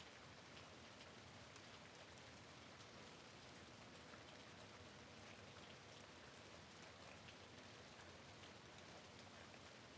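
Faint, steady rain with scattered small drop ticks, the patter of raindrops on a window.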